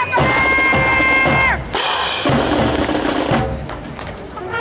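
Marching band playing: a held brass chord with bass and snare drum strokes cuts off about one and a half seconds in. A brief cymbal-like crash follows, then more drum strokes, and the music thins out near the end.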